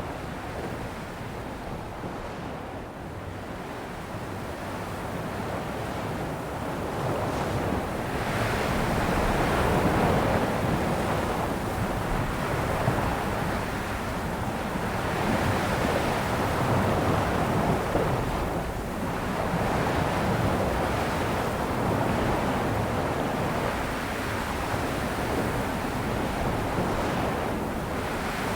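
Sea waves breaking and washing onto a shore, the surf swelling and ebbing every several seconds.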